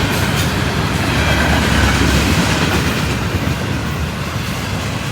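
Freight train rolling past, its wheels rumbling steadily on the rails, loudest about two seconds in.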